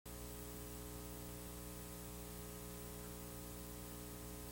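Steady electrical mains hum with a stack of even overtones under a constant hiss, unchanging throughout: background noise of an old video recording before any program sound.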